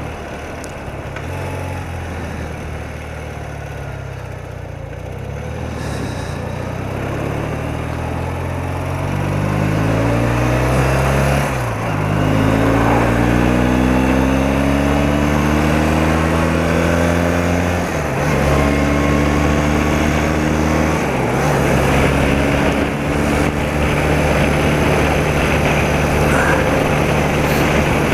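BMW R80RT's air-cooled boxer twin accelerating: the engine note climbs, drops at two gear changes, the second about two-thirds of the way through, then holds steady at a cruise.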